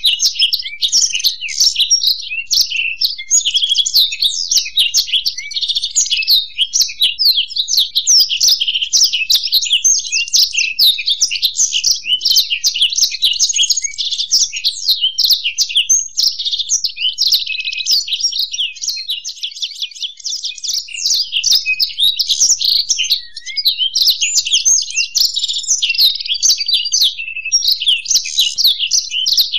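Black-throated canary and European goldfinch singing together: a loud, continuous stream of rapid high twittering and trilling, with no pause.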